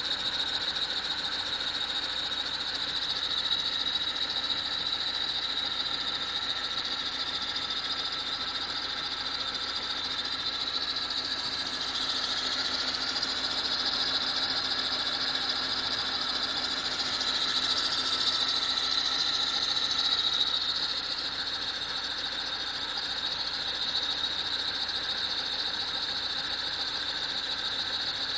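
BMW engine running cold with a steady high-pitched screech over the engine note. The screech swells somewhat about halfway through, then eases back. The noise shows up only when the engine is cold.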